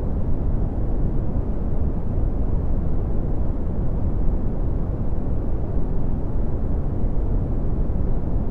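Synthetic red (Brownian) noise: a steady, deep rumbling hiss, strongest in the bass and falling away toward the treble, with no change or events.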